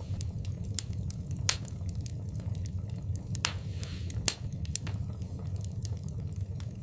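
Wood fire burning in a fireplace: a steady low rumble with irregular sharp crackles and pops, the loudest about a second and a half in and just after four seconds.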